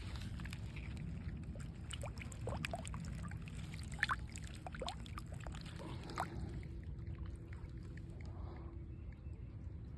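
Faint outdoor ambience: a steady low rumble, likely wind on the microphone, with a few short chirping calls around the middle and scattered light clicks and rustles.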